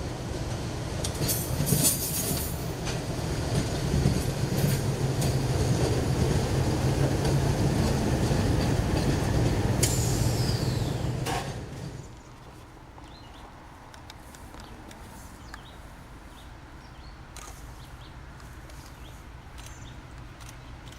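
A train rolling past with a heavy low rumble and scattered clicks of wheels over the rail. A falling high squeal comes about ten seconds in. About twelve seconds in the sound drops abruptly to a much quieter steady background with faint ticks.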